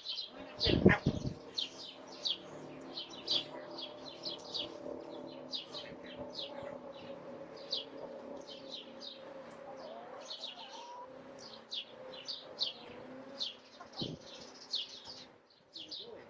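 Small birds chirping rapidly and continuously in short, high, falling notes, over a low steady drone. A loud thump about a second in and a smaller one near the end.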